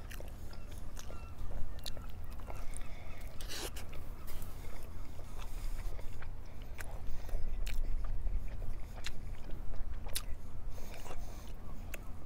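A man chewing and biting into a barbecue burger on a soft bun, close to the microphone, with many scattered wet mouth clicks.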